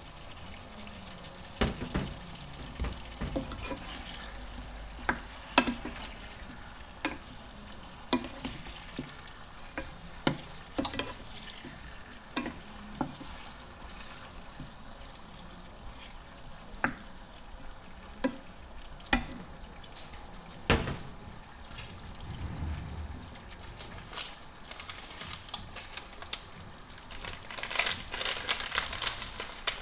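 Chicken feet frying in a pan with a steady sizzle, sharp clicks and knocks every second or two, and a dense burst of crackling near the end.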